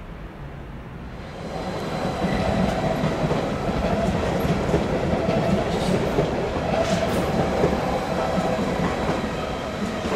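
SBB Stadler FLIRT electric multiple unit running past on the station tracks, its wheel and running noise swelling about a second and a half in and staying loud as it goes by.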